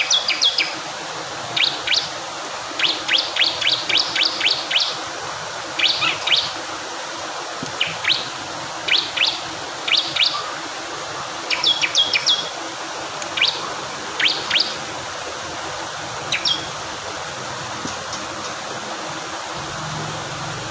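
Bar-winged prinia (ciblek kristal) singing in quick bursts of short, sharp high chirps, several notes a second, over a steady rush of flowing water. The chirps stop about three-quarters of the way through, leaving only the water.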